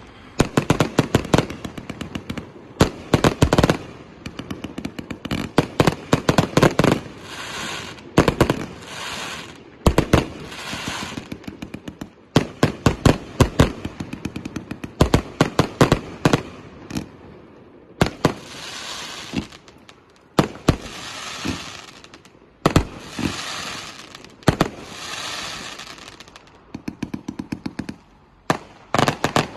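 A 1.2-inch, 168-shot consumer firework cake firing: rapid volleys of sharp launch bangs, several followed by about a second of hiss from the shells' effects.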